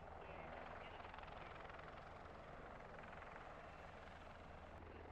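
Z-20T helicopter in flight: steady rotor and turbine noise, with a fine rapid chop from the blades.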